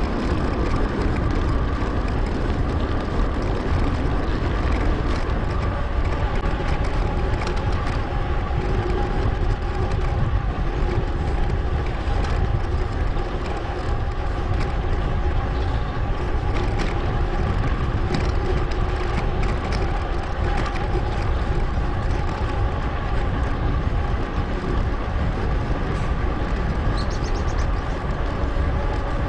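Wind rushing over an action camera's microphone and tyre and drivetrain noise from a mountain bike riding along a paved path, steady throughout with a faint hum of a few steady tones. The ride is sped up to 2.5 times normal speed.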